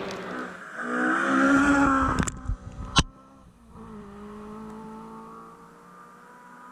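Rally car engine revving hard as the car passes at stage speed, cut off by a sharp click about three seconds in; after it, a car engine is heard fainter, its pitch climbing slowly as it accelerates away.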